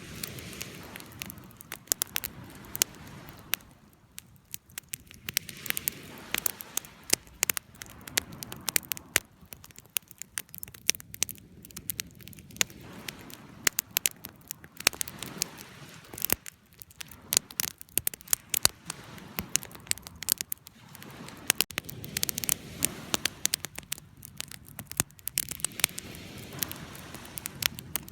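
Wood fire crackling and popping: many sharp irregular snaps over a low flame hiss that swells and eases every few seconds.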